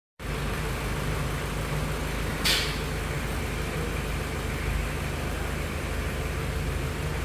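Mitsubishi Libero's engine idling steadily, freshly repaired, with a short hiss about two and a half seconds in.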